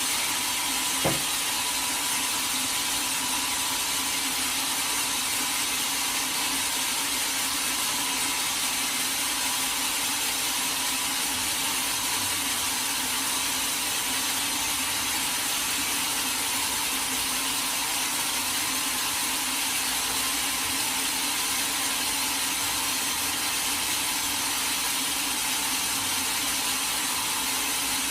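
Sawmill saw running steadily through a teak log, an even mechanical hiss and hum with no pauses. A single sharp click about a second in.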